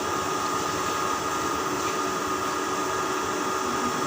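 Steady mechanical whirring with a constant hum, unchanging throughout.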